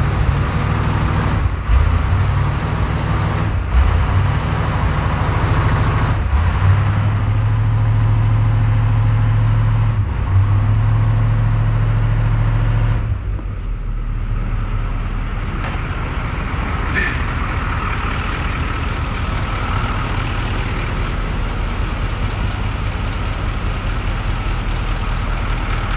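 Old 9-litre diesel truck engine, running cold just after an ether-assisted start, with a few short changes in speed. About halfway through it drops back to a steady idle.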